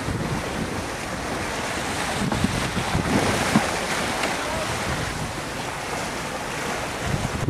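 Wind buffeting the microphone over waves and water rushing past a sailboat under sail, swelling a little about three seconds in.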